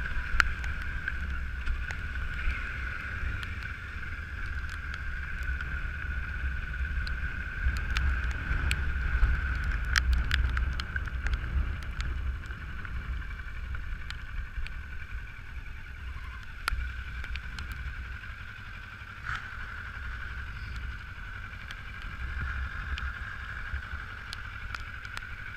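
Motorcycle on the move, heard from an on-bike camera: a steady low rumble of wind and engine with a constant high whine over it and scattered sharp ticks.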